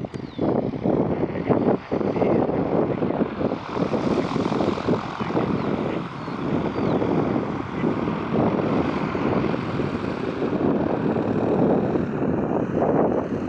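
Propeller airplane engine, a steady noisy drone that grows brighter and fuller in its upper range from about four seconds in, then eases again.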